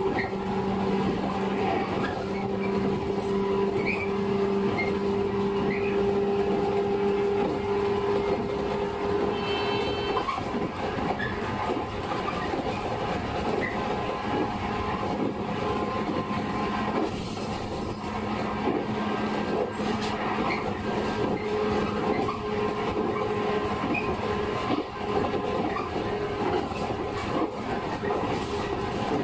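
A JR 115 series electric train running at speed, heard from inside the carriage: steady wheel-on-rail rumble with a droning hum from the traction motors. The hum fades about ten seconds in and returns slightly higher around twenty seconds in.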